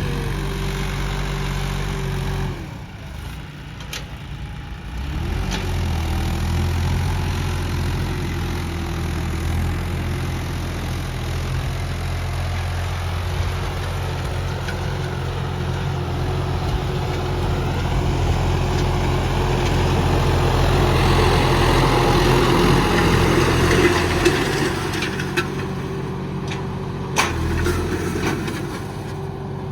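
Modified John Deere 5405 tractor's diesel engine running under load. The engine note drops away about three seconds in and picks back up a couple of seconds later. It grows louder and rougher roughly two-thirds of the way through, then eases off near the end.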